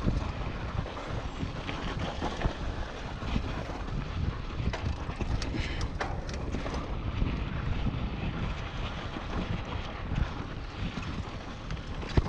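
Wind buffeting the microphone and the steady rumble of a mountain bike rolling over a rough dirt trail, with scattered small rattles and clicks.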